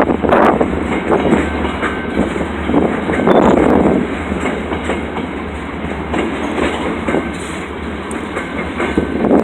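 Freight train cars rolling past close by, their wheels clattering over the rail joints and the grade crossing in repeated loud swells over a steady low rumble.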